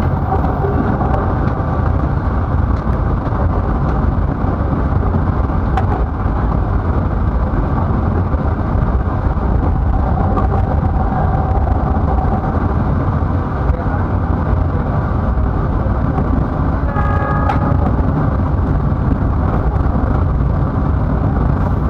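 Steady low rumble of a passenger train running on the rails, heard from inside the carriage. A short pitched sound, like a horn, rises above it about three quarters of the way through.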